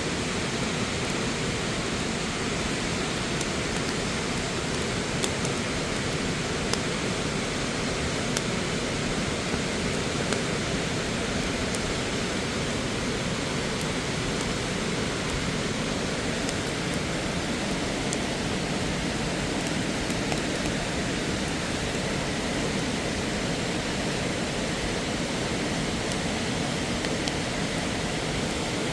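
Steady rushing of mountain water, an even hiss with no change.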